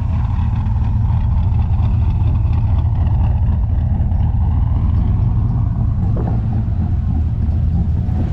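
A car engine idling steadily: a deep, even rumble.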